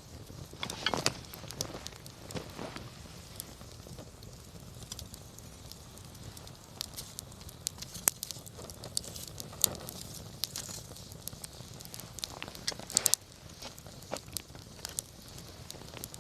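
Wood campfire crackling, with irregular sharp pops and snaps over a low steady rush of flame; the pops come in louder clusters about a second in and again near the end.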